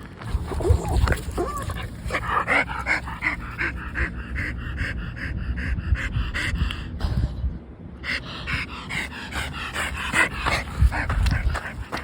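A dog panting rapidly in quick, even breaths, pausing briefly about seven seconds in, over a low rumble.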